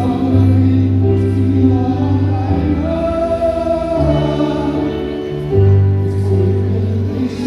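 Music with a choir singing over slow, held bass notes that change every second or two.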